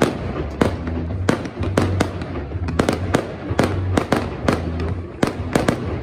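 Aerial fireworks display: a rapid run of sharp bangs and pops from shells bursting overhead, several a second and uneven in loudness.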